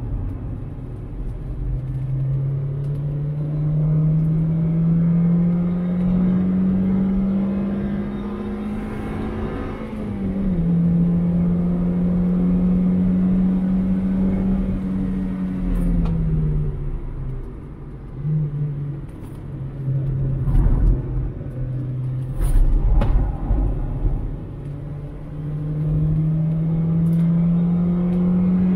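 2001 Mazda MX-5's 1.8-litre four-cylinder engine under hard acceleration, heard from inside the car: the revs climb, drop sharply with an upshift about ten seconds in, and fall away under braking around sixteen seconds, with a brief blip. The revs then sit low and climb again near the end. A few short thumps come about two thirds of the way through.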